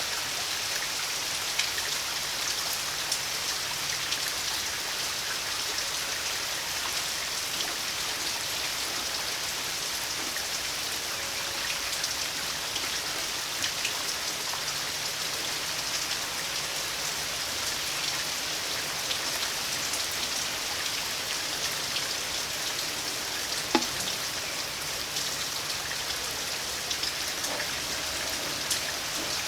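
Steady summer rain falling, with many individual drops tapping close by. One sharper tap comes about 24 seconds in.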